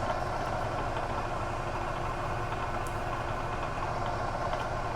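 Bridgeport milling machine running, its end mill taking a deep roughing cut in a metal block: a steady machine hum with cutting noise and a few faint ticks. The cut is heavy enough that the chips come off hot.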